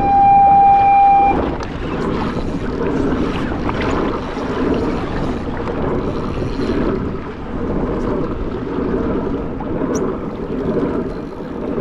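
Wind buffeting the microphone and sea water sloshing around a kayak during a fish fight. It opens with a steady high tone that stops after about a second.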